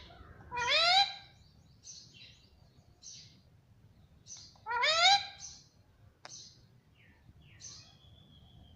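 Indian ringneck parrot giving two loud, rising, meow-like calls about four seconds apart, with soft short chirps in between.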